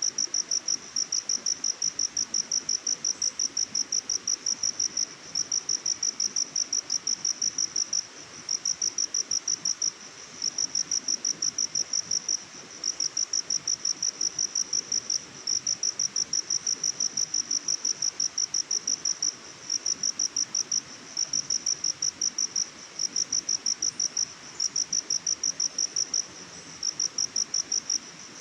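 A cricket chirping: a high, even train of rapid pulses, several a second, broken by short pauses every few seconds, over faint background hiss.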